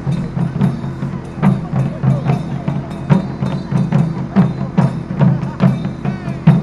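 Japanese taiko drum ensemble playing a fast, driving rhythm, with sharp wooden clicks between the deep drum strikes.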